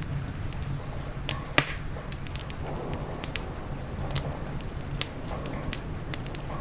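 Wood fire crackling in a fireplace: irregular sharp pops and snaps, one louder pop about a second and a half in, over a steady low rumble.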